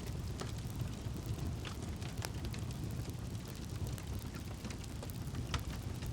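Campfire burning: a steady low rumble of flames with frequent irregular sharp crackles and pops from the burning wood.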